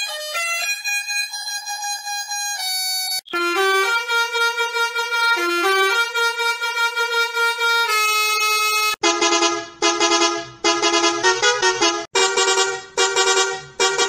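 Bus horn sound variations: loud pitched horn tones stepping through a tune. The sound switches to a new variation about three seconds in, and again about nine seconds in, where it becomes a run of short, clipped honks.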